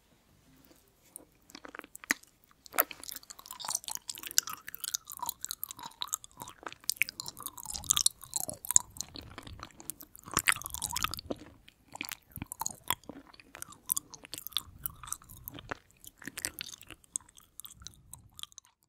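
Close-miked chewing of soft, sticky konjac sheet jelly: many wet clicks, smacks and squelches, stopping just before the end.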